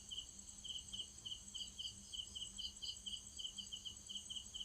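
Crickets chirping: a regular run of short chirps, about four a second, over a high continuous insect trill.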